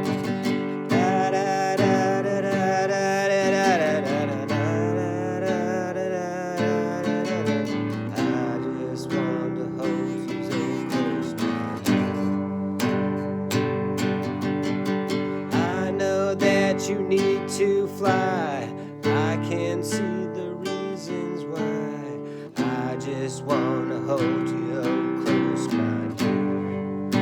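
Acoustic guitar strumming chords under a wavering melody line in an instrumental passage of a song.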